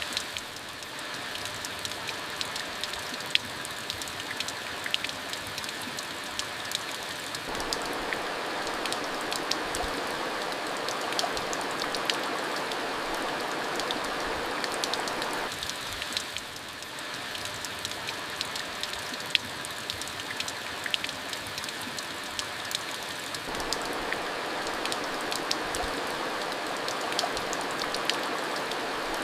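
Steady monsoon rain falling, with many separate drops ticking on a hard surface. The main body of the rain swells and eases about every eight seconds.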